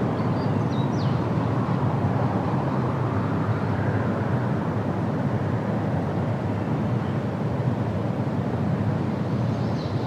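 Steady low rumbling noise with no clear pitch, with a few faint, short high bird chirps in the first second and one near the end.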